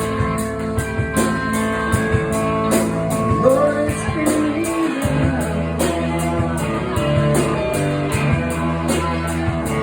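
A band playing a blues-rock song: guitar and a singer over a steady beat.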